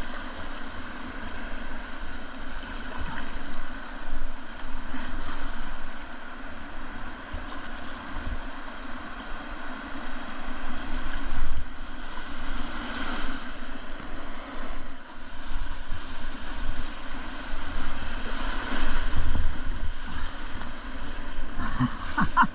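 Whitewater river rapids rushing, a steady noise of moving water that swells every few seconds with louder splashing.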